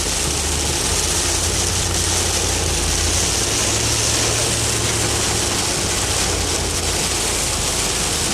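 Car on the move, heard from inside the cabin: a steady low engine and road drone under a loud, even hiss.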